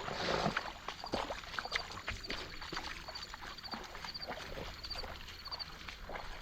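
Footsteps sloshing and splashing unevenly through shallow river water. Short high chirps, likely a bird, repeat about every half second through the middle.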